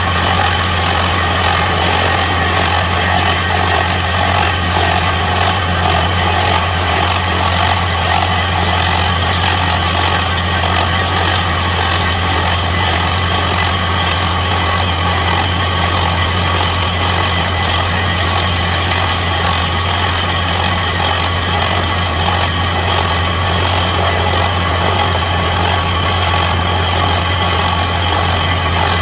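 Borewell drilling machine running steadily at constant speed, a loud, unbroken deep drone with a steady whine above it.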